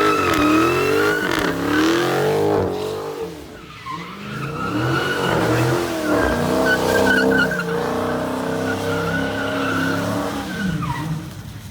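Car engine revving hard, its pitch rising and falling over and over, with tyres spinning and squealing; the revs fall away near the end.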